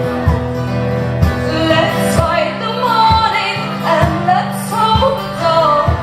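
Live band music: women's voices singing over sustained instrumental backing, with a low beat about once a second.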